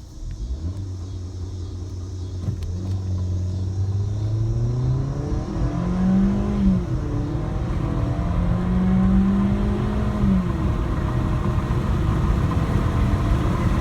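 2016 Ford Fiesta's 1.6-litre four-cylinder engine accelerating at full throttle from a standstill toward 60 mph. Its pitch rises through each gear and drops back at each upshift, about three times, while road noise builds as speed climbs.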